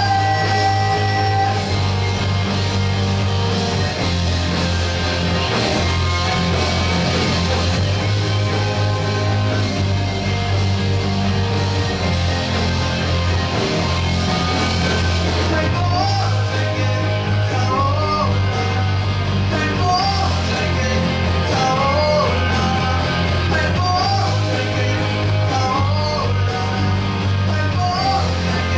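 Rock band playing with a singer: vocals over electric guitars, bass, drums and keyboard. About halfway through, a repeating melodic figure with bent notes comes to the fore.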